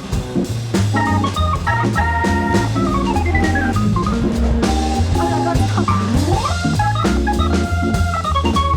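Background music: an organ-led jazzy track with drum kit and a walking bass line.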